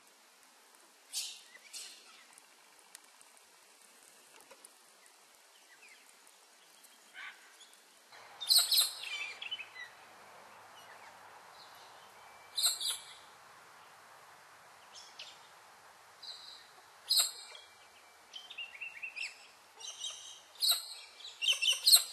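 Birds calling: short, sharp, high chirps at irregular intervals, coming in a quicker run of several near the end, over a faint steady hiss.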